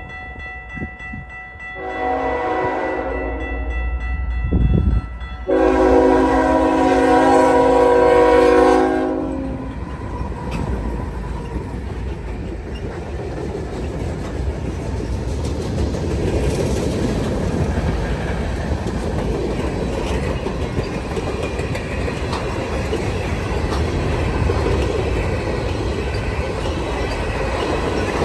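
Freight train passing. The lead locomotive's Nathan K5HL five-chime air horn sounds a short blast, then a long one of about three and a half seconds, over the low rumble of the diesel engines. Then the freight cars roll by with steady wheel noise and clickety-clack over the rail joints.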